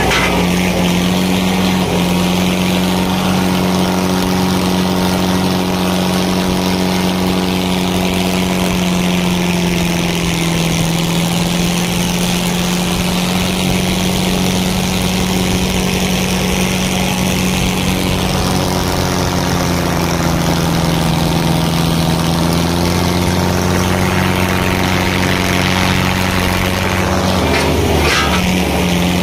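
Diesel tractor engine running hard and steadily under load, its pitch sagging slightly and recovering a couple of times.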